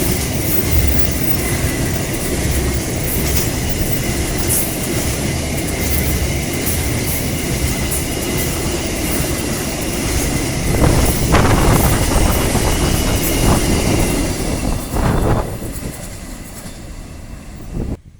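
A railway passenger train rolling past, its wheels rumbling and clacking over the rail joints with a steady high wheel squeal. It grows louder in the middle, then fades and cuts off abruptly near the end.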